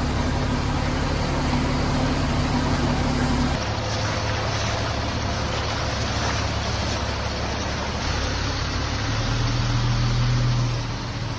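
A road vehicle's engine running, with a steady hum and road noise. The sound changes abruptly about three and a half seconds in, and again near the end.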